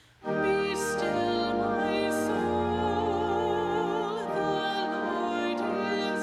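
Sacred classical-style music: a singing voice with vibrato over sustained instrumental accompaniment, starting abruptly just after a brief near-silent gap.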